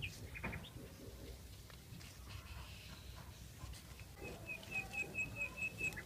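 A small bird calling outdoors: a couple of short high chirps near the start, then a quick run of evenly spaced high notes, about four a second, growing louder over the last two seconds.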